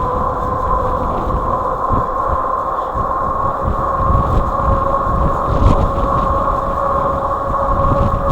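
Wired Freedom fat-tire e-bike's electric motor giving a steady whine, edging slightly higher in pitch, over the low rumble of fat tyres rolling on the trail and wind on the microphone.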